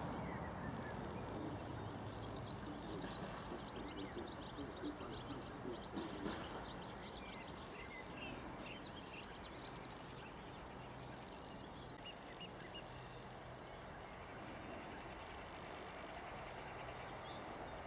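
Small birds chirping and singing in many short, quick calls over a faint low background rumble, which eases off over the first few seconds.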